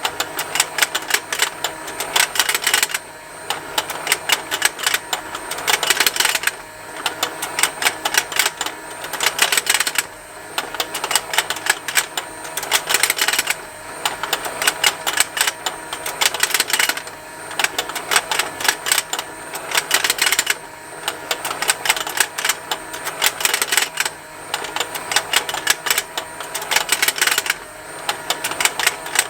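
Toy fishing game's small motor turning the rotating pond, with rapid plastic ticking and snapping. The ticking comes in dense bursts of a couple of seconds, broken by brief quieter gaps, about every three and a half seconds.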